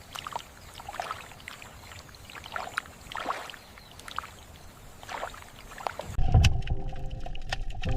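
Water splashing in an even rhythm, about once a second. About six seconds in it cuts abruptly to a different, louder sound of low thumps over a steady hum.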